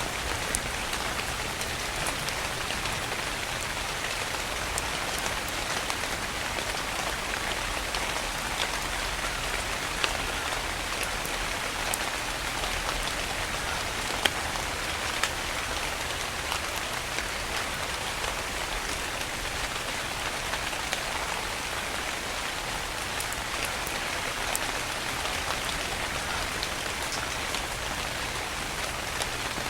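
Rain falling steadily on a surface: an even hiss with scattered sharp drop taps.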